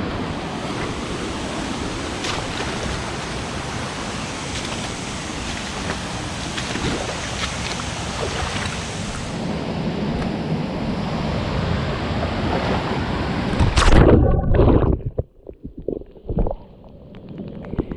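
Steady roar of a waterfall close to the microphone. About fourteen seconds in there is a sharp, loud knock from the camera itself being hit or dropped. After it the roar cuts to a muffled, broken low rumble with the highs gone.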